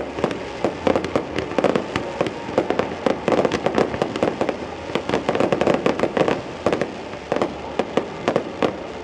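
Fireworks display going off in a rapid, continuous barrage of bangs and crackles, several reports a second with no pause.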